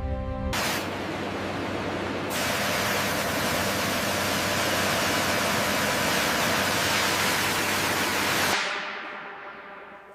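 A steady spraying hiss that starts about half a second in, grows brighter about two seconds in, and fades away over the last second and a half.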